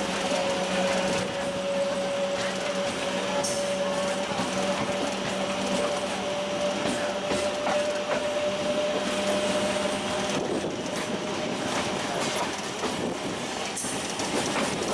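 MEMU electric local train running on the track, a steady rumbling noise with a steady hum that stops about ten seconds in.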